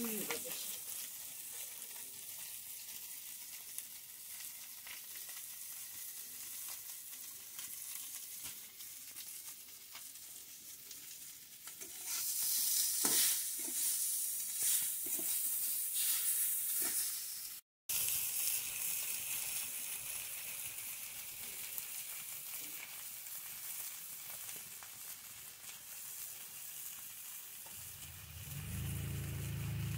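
Fish and potato curry sizzling in a metal pan over a wood fire, with a steady hiss. For several seconds around the middle a metal spatula scrapes and clinks against the pan as the curry is stirred, and a low rumble comes in near the end.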